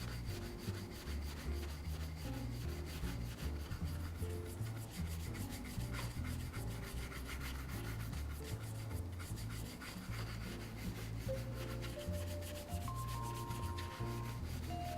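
Leather boot being rubbed in repeated back-and-forth strokes, a steady dry scrubbing as the leather is worked over.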